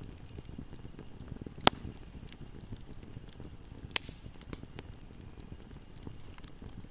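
Campfire burning: a steady low rumble of flames with light crackling throughout and two loud sharp pops a couple of seconds apart.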